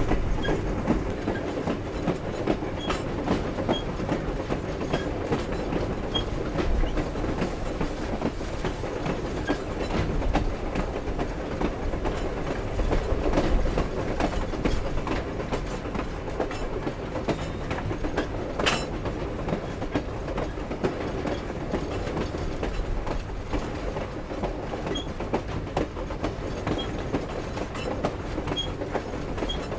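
Steam-hauled train cars rolling along the track: a steady rumble of wheels on rails with faint clickety-clack and clanking, and one sharper click a little past halfway.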